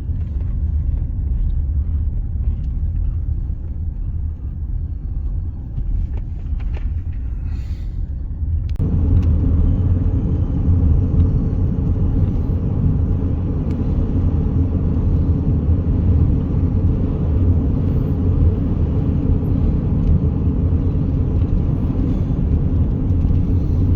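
Road noise of a car being driven, heard from inside the cabin: a steady low rumble that grows louder and more hissy about nine seconds in.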